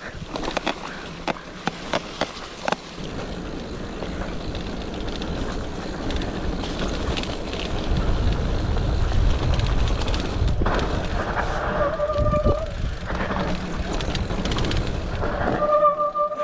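Mountain bike descending a wet, rough trail: rattling clicks from the bike over bumps, then rolling tyre and wind noise with a low rumble on the microphone. A short, high squeal sounds twice, about twelve seconds in and again near the end, typical of wet disc brakes.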